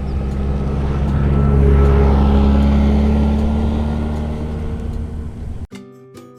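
A motor vehicle's engine passing by, a steady low hum that swells to its loudest about two seconds in and then fades. It cuts off suddenly near the end, giving way to acoustic guitar music.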